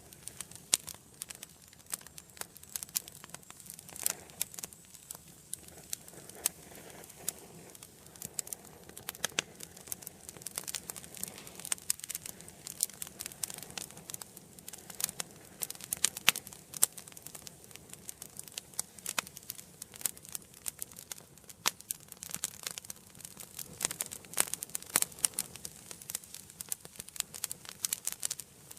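Wood fire burning in an indoor fireplace, crackling steadily with many sharp, irregular pops over a soft hiss.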